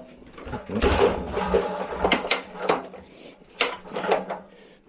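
Hand truck's retractable strap and lever being worked: a rubbing, scraping stretch about a second in, then several separate sharp clicks of the lever and metal parts.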